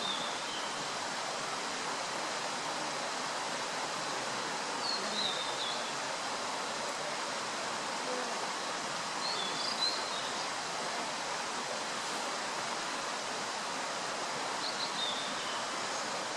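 Male blue-and-white flycatcher singing four short, high warbled phrases, each a few seconds apart, over a steady rushing background.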